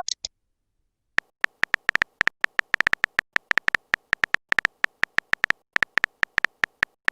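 Typing sound effect: a long run of short, irregular clicking ticks, several a second, starting about a second in.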